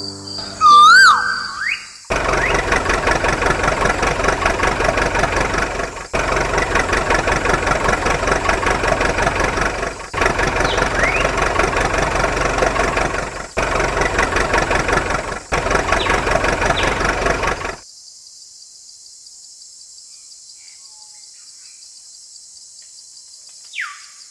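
An engine-like running sound with rapid, even pulses, broken into several stretches by short gaps, from the small motor of a miniature model tractor engine. It stops abruptly about 18 s in, leaving only a faint hiss.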